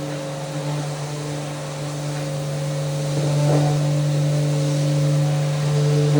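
Electric power sander running steadily while sanding handrails, a constant motor hum with a sanding hiss that grows a little louder about three seconds in.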